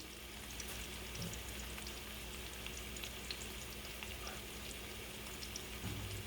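Potatoes and garlic sizzling faintly in a hot frying pan, with scattered small crackles over a low steady hum.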